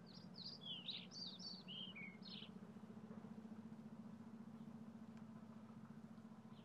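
A songbird sings one quick phrase of about ten short down-slurred notes that step lower in pitch, lasting about two and a half seconds, over a faint low steady hum.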